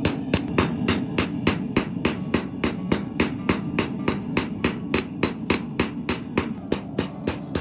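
Hand hammer striking steel on an anvil in steady forging blows, about three a second, each with a bright metallic ring, over a steady low hum.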